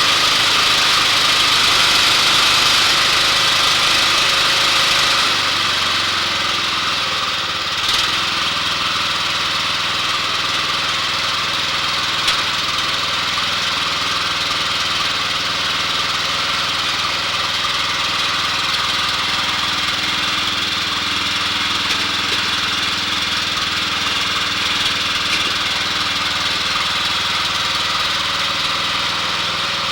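Briggs & Stratton 14 hp engine of an MTD Yard Machine riding mower running steadily; about seven seconds in it gets a little quieter and steadier, with a sharp click about eight seconds in.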